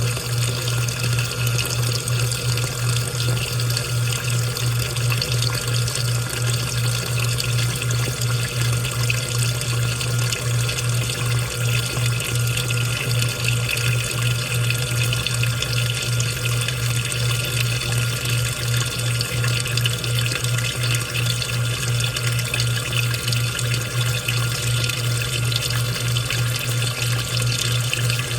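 Washing machine running: water rushing and splashing inside the drum over a steady low motor hum, unbroken throughout.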